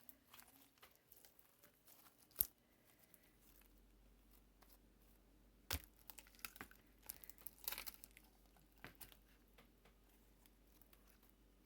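Faint sticky crackles and pops of homemade slime being kneaded and pulled with glue mixed in, with sharper snaps about two and a half seconds in and near six seconds, and a busier run of crackling a little later.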